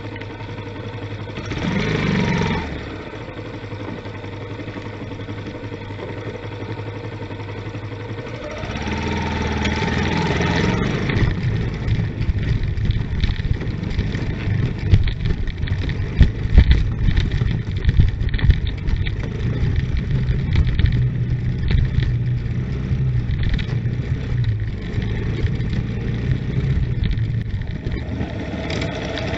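A vehicle engine idles steadily, with a short rev about two seconds in. Around nine seconds it rises in pitch as the vehicle pulls away, then runs on with a louder, uneven low rumble and scattered sharp knocks as it drives.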